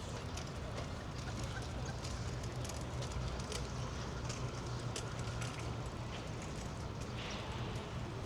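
City street ambience: a steady low rumble of traffic, with scattered short clicks of footsteps on pavement.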